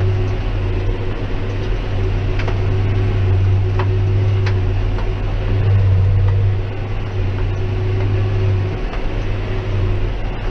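Steady low drone of a John Deere 6190R tractor working a Claas 3300 big square baler in barley straw, heard from inside the tractor cab, with a few faint clicks.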